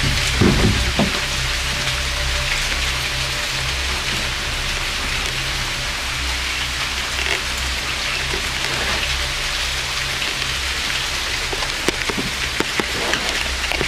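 Steady rain falling, with scattered sharp drop taps standing out near the end.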